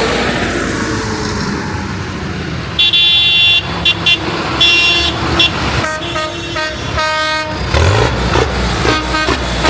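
Tractor horns honking over the running engines of the parade tractors. A higher-pitched horn gives several short toots about three to five seconds in, then a lower-pitched horn sounds in longer blasts around six to seven seconds.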